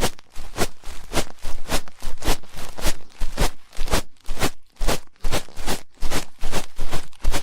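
Ear pick scraping in quick repeated strokes, about three a second, each a short scratchy rasp, in ear-cleaning ASMR.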